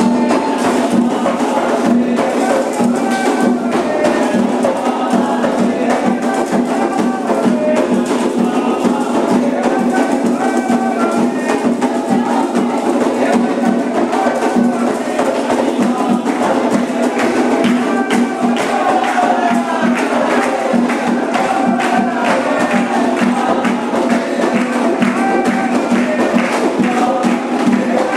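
Candomblé ceremonial music: drums and fast clicking, rattling percussion keep a dense, even rhythm, with voices singing over it.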